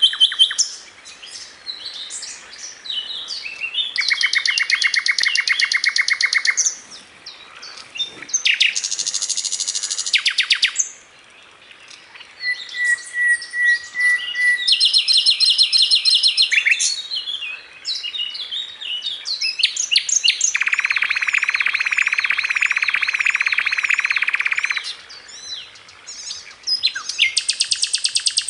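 Sikatan londo, a flycatcher, singing a loud, varied song of rapid trills, buzzy rattling phrases and sweeping notes, broken by short pauses. It is a masteran recording, used to teach the song to caged songbirds.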